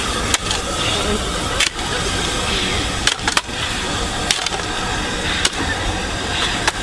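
An LNER B1 steam locomotive and its coaches rolling slowly over pointwork. Wheels click irregularly over rail joints above a steady rumble.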